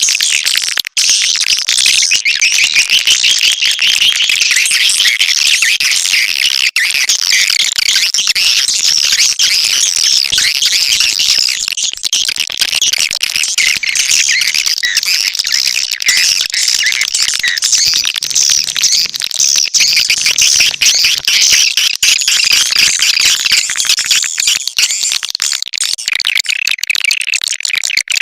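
Swiftlet calls: a dense, unbroken chatter of high twittering chirps. It is a swiftlet lure call, the kind played to draw swiftlets into a nesting house.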